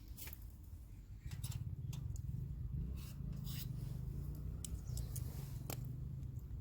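Wood campfire crackling, with scattered sharp pops and ticks, over a low steady rumble that gets louder about a second in.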